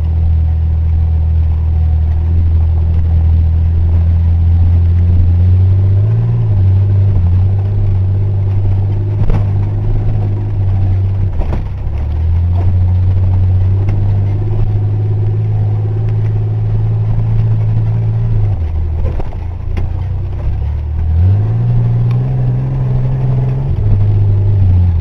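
1985 Chevy S-10's 2.8-litre V6 engine running as the truck is driven off-road, its engine speed rising and dropping back several times. A couple of sharp knocks come in the middle.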